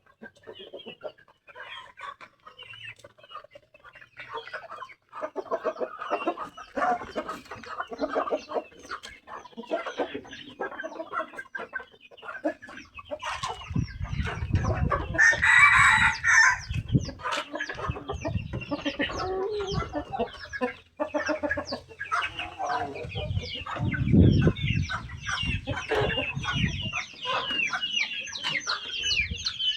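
Bangkok game chickens clucking throughout, with a rooster crowing once about halfway through. Some low thumps are heard in the second half.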